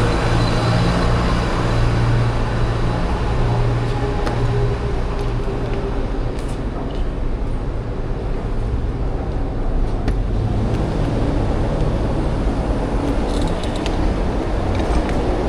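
Steady street traffic noise with a low vehicle engine hum, strongest in the first few seconds, easing in the middle and building again near the end.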